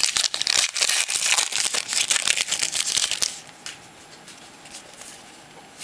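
Foil wrapper of a trading-card pack crinkling and tearing as it is ripped open, for about three seconds. After that it goes quieter, with only a few faint clicks.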